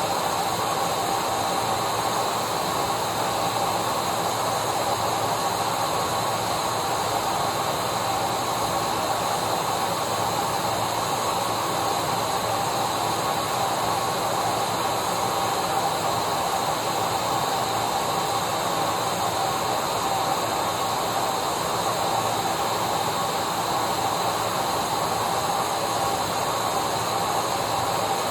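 Electric vacuum cleaner running steadily: an even rushing hiss of motor and airflow with a faint constant whine on top, unchanging throughout.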